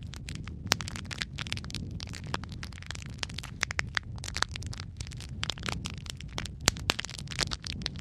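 Wood fire of burning logs crackling, with irregular sharp pops and snaps over a steady low rumble of flame.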